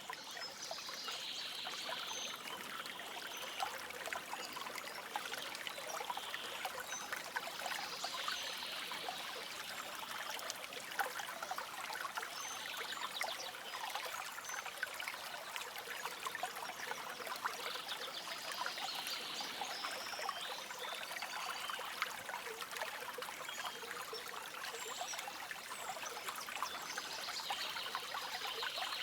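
Shallow stream of running water trickling and babbling steadily, a continuous dense patter of small splashes.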